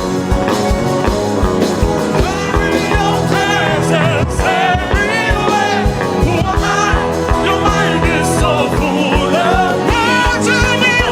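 Worship music: held keyboard chords over a steady low beat, with a voice singing or chanting over them.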